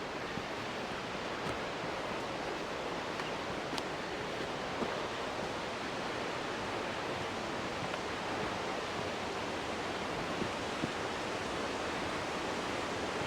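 Steady rushing of a waterfall, an even roar of falling water, with a few faint taps over it.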